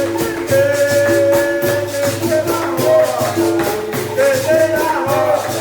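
Capoeira music: berimbau notes with the caxixi shaker rattling and pandeiro strokes in a steady rhythm, with a voice singing over it.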